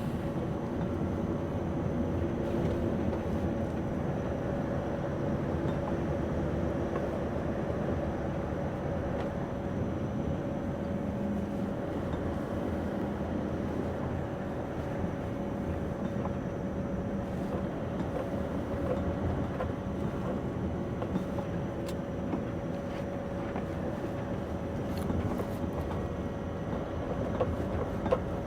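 Scania V8 lorry engine running steadily under way, heard from inside the cab, with a constant drone and a steady whine over road noise. A few faint clicks come near the end.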